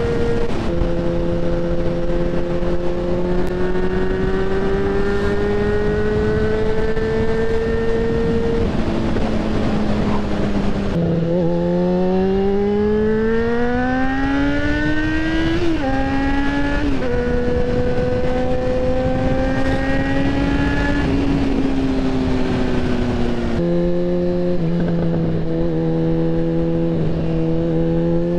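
Yamaha XJ6N's 600 cc inline-four engine pulling through the gears: the pitch climbs steadily under acceleration and drops sharply at each upshift, about 11, 16 and 17 seconds in, with a stretch of steady cruising in between.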